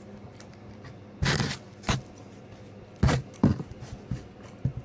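A few short scraping and rustling handling noises at a meal table, the loudest about a second in and again about three seconds in, with smaller knocks between.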